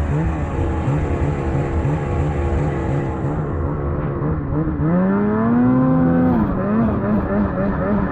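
An engine running under steady load, wavering in pitch. It revs up sharply about five seconds in and drops back a second and a half later.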